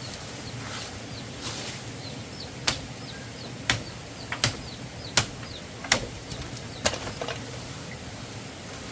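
A series of six sharp knocks or chops, roughly a second apart, over a steady outdoor background with faint high chirps.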